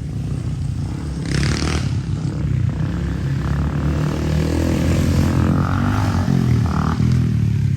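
Dirt bike engine revving, its pitch climbing and then falling back, with a brief rush of noise about a second and a half in.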